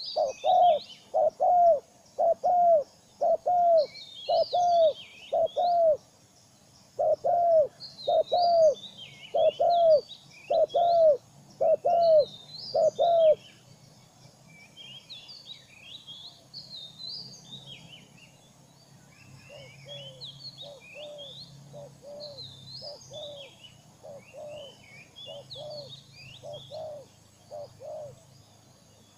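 Birds calling: a bird gives loud short low notes again and again, about two a second, with high chirping and twittering of small birds over it. About halfway through the low notes stop for a few seconds, then come back quieter.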